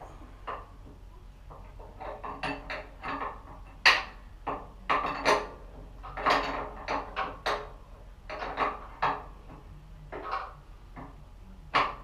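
Irregular clanking and knocking of metal parts and hand tools being handled, with one sharper knock about four seconds in.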